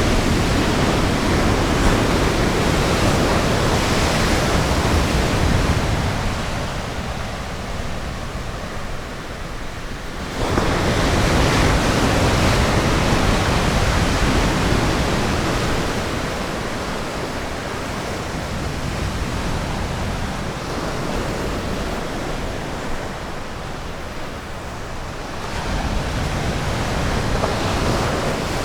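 Ocean surf: waves breaking and washing ashore in a steady rush that swells and eases, with a sudden louder surge about ten seconds in after a lull and another rise near the end.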